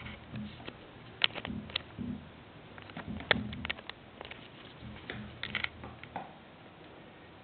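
Small kittens scampering on a hallway floor: irregular light clicks and taps of paws and claws, with soft low thumps between them.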